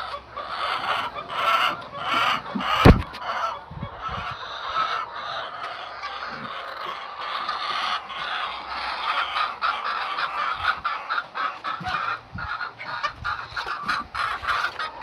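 A flock of hens clucking and calling continuously, many overlapping calls, with a single sharp knock about three seconds in.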